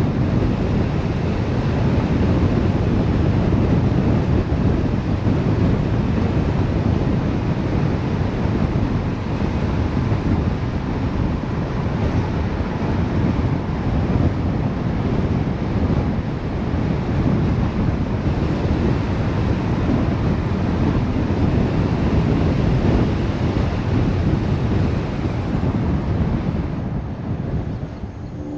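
Steady rushing wind and road noise from a moving car, dropping off near the end as the hiss thins out.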